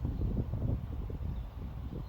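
Wind buffeting the microphone: a low, gusty rumble that rises and falls.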